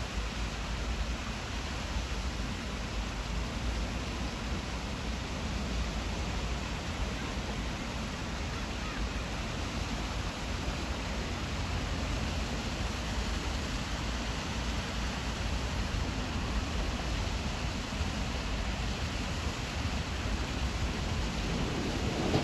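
Steady rushing noise of wind and sea waves at the shore, with a strong low rumble underneath.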